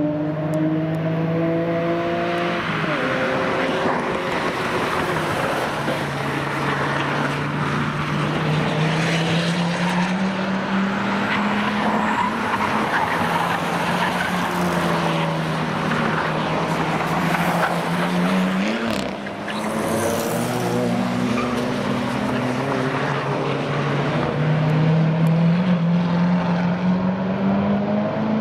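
Cars at speed on a race track, their engines repeatedly climbing in pitch under acceleration and dropping at the gear changes, over steady tyre and road noise.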